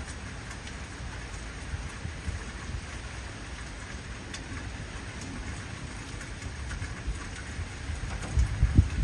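Heavy rain falling steadily, with scattered sharp drop ticks, under a low rumble of thunder that swells louder near the end.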